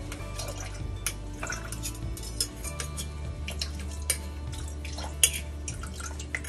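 Metal spoon scraping and tapping against a fine-mesh metal strainer as pulp is pressed through it over a plastic pitcher, giving irregular small clicks and scrapes.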